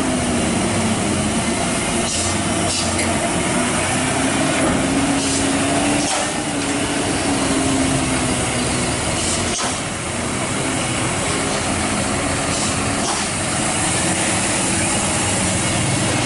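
Heavy truck engine running under load on a steep climb, its pitch wavering slightly up and down.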